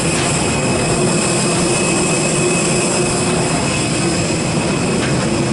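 Steady machinery noise of a parked Airbus A321neo: an unbroken low hum with a high, even whine above it.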